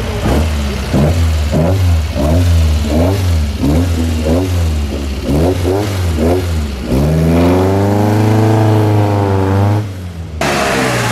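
Alpine A110 rally car's engine revving up and down in quick blips about twice a second as it rolls past, then held in one long rev as it pulls away, dropping off near the end.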